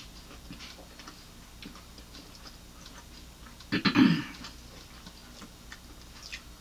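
Close-miked chewing of fried chicken wings: soft, scattered mouth clicks and smacks, with one brief louder noise from the eater about four seconds in.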